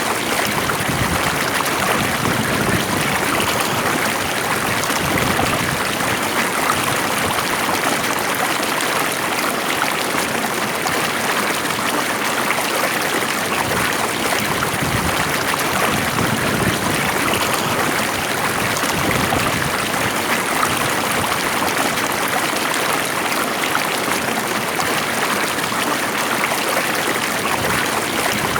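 Stream water flowing calmly, a steady rush with a fine trickle.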